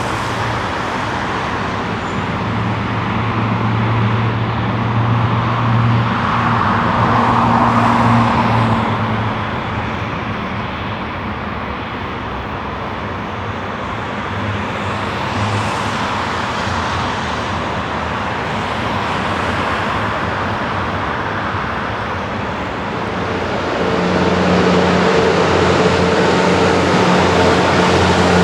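Jet engines of a Boeing 767-300ER airliner running continuously, swelling and easing in loudness with a steady low hum. Near the end a different jet's engine sound takes over, with several steady humming tones.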